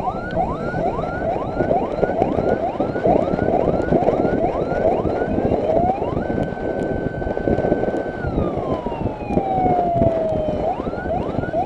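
Electronic escort siren on a motorcycle: a fast yelp of rising chirps about three a second, which switches about six seconds in to a slow rise, a held high note for about two seconds and a long falling wail, then back to the fast yelp, over constant rushing road noise.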